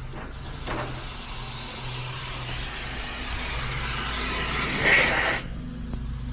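Leftover nitrogen hissing out of a heat pump's refrigerant lines as the system is vented, growing slightly louder and then cutting off suddenly about five seconds in. A steady low hum runs underneath.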